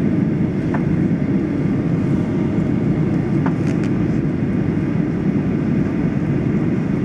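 Steady cabin noise of a Boeing 737-800 airliner on approach: an even low rumble of engines and airflow past the fuselage, with a couple of faint clicks.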